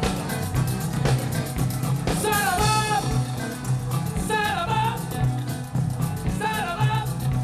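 Live band music with a steady beat and bass, and a melody line in short repeated phrases, likely sung.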